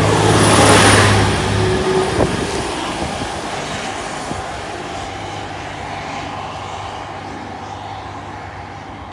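Train running past close by with a steady hum and rushing noise. About two seconds in, a second train moving away along the track takes over, its running noise fading steadily with a few clicks from the rails.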